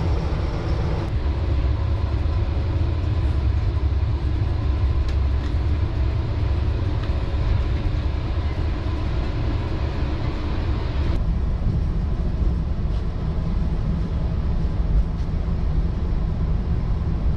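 Steady low rumble of a moving Tejas Rajdhani sleeper coach heard from inside the coach. The higher part of the noise drops away sharply about a second in and again around eleven seconds in, leaving mostly the deep rumble.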